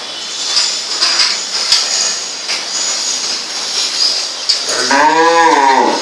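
Cattle mooing once near the end, a single low call about a second long that rises and falls in pitch, over a steady hiss.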